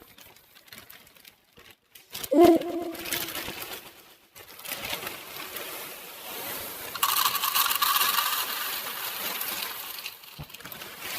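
Honey Nut Cheerios being poured into a bowl: a long rattling hiss of small hard pieces, loudest in the middle, after a short sharp clink with a brief ringing tone about two seconds in.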